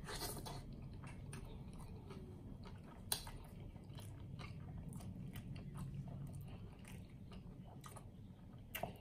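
A person biting into a large triple cheeseburger with bacon and chewing it, with many small wet mouth clicks. A sharp click about three seconds in is the loudest moment.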